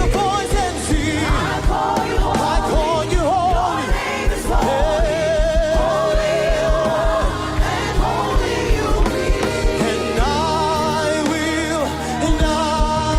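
Gospel worship music: voices singing with vibrato over a band with a steady drum beat.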